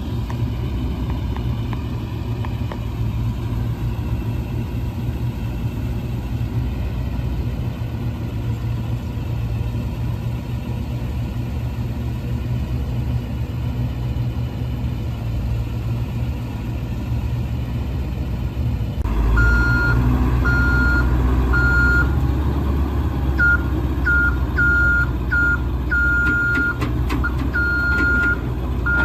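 1999 International 4700 truck's 7.3L International diesel running steadily. About two thirds of the way in the engine gets louder and a backup alarm starts beeping, about once a second at first, then faster and less evenly.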